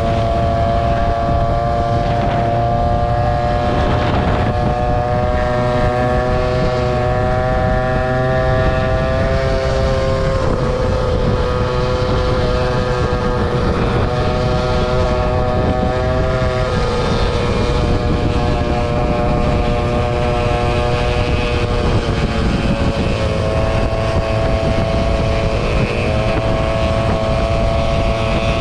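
Scooter engine running at a steady speed, its pitch shifting slightly a few times, with a heavy rumble of wind on the microphone.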